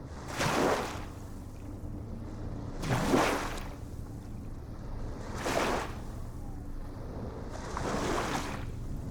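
Small ocean waves breaking and washing in, one wash about every two and a half seconds, four in all, over a steady low rumble of surf.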